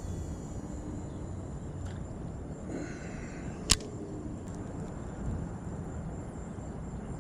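Wind buffeting the microphone in a steady low rumble, with one sharp click about three and a half seconds in.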